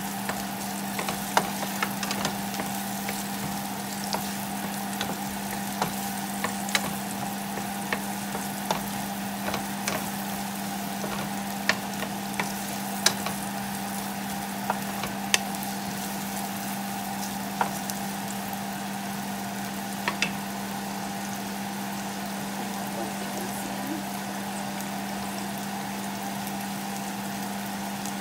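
Sliced onion, garlic and ginger sizzling in oil in a nonstick frying pan, over a steady low hum. Scattered sharp taps from the wooden spatula stirring the pan die away after about twenty seconds.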